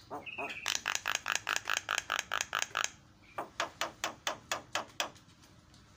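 Javan myna calling in a fast run of short repeated notes, about six or seven a second, in two bursts with a short break about three seconds in.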